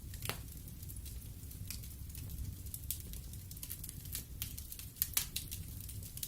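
Wood fire burning in a fireplace: a low steady rumble of flames with scattered sharp crackles and pops from the burning logs, two louder pops about five seconds in.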